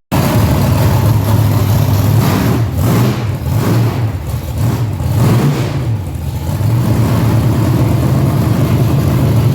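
A car engine running loudly at idle, revved up briefly a few times in the middle, then settling back to a steady idle.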